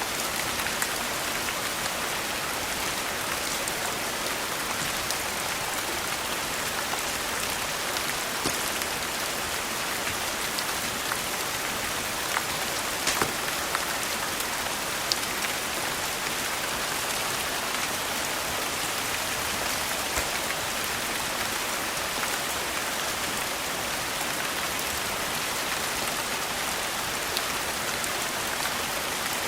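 Steady rain falling, an even hiss with scattered sharp ticks of individual drops or pops.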